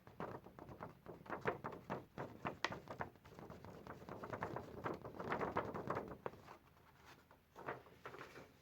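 Match-head powder being poured into a small paper rocket tube: a quick irregular run of light taps and rustles that thins to a few scattered taps after about six seconds.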